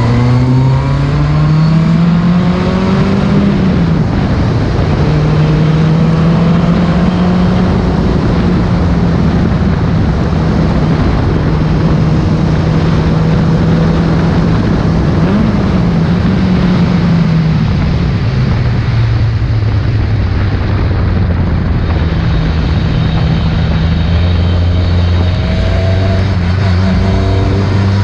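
Ford Escort RS competition car engine running hard: it revs up in the first few seconds, drops at a gear change about four seconds in, and holds high revs. There is a quick rev blip about halfway, the revs fall lower for several seconds, and they climb again near the end.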